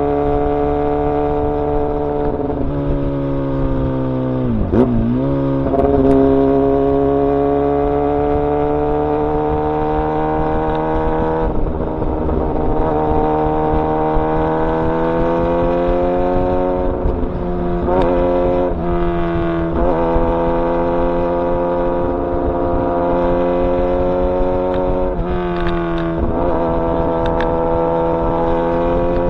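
Kawasaki ZX-10R inline-four engine running under way. Its pitch climbs slowly through the gears, with a quick dip and recovery about five seconds in and several shorter drops later on.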